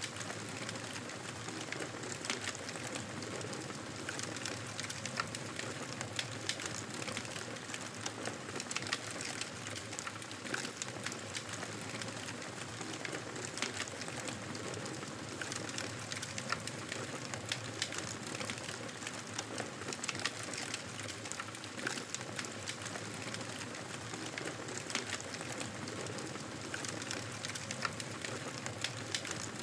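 Wood campfire burning: a steady hiss of flames with frequent, irregular sharp crackles and pops from the burning wood.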